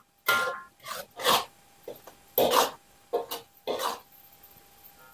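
Metal spatula scraping the inside of a wok, stirring frying sambal in about six short, uneven strokes.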